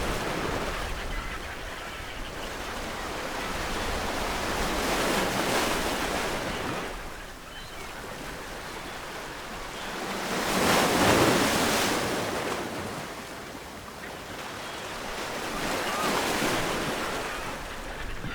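Ocean waves breaking on a shore, each wave surging and drawing back about every five to six seconds, the loudest about eleven seconds in.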